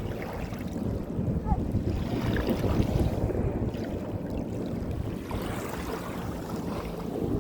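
Sea waves washing on the shore, with wind buffeting the microphone in a continuous low rumble.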